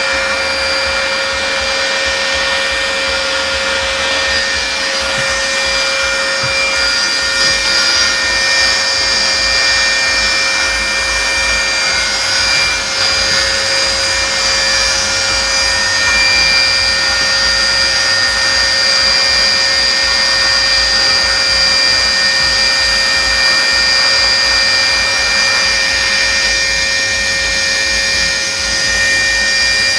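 Vacuum cleaner running steadily: a motor whine of several steady tones over the rush of air.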